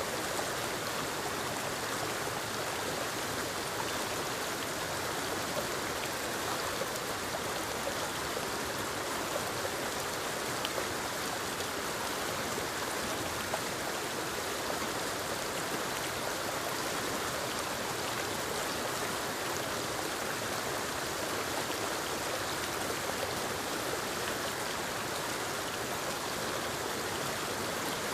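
Forest waterfall cascading over rocks into a stream: a steady rush of falling and flowing water, with small splashes and drips ticking through it.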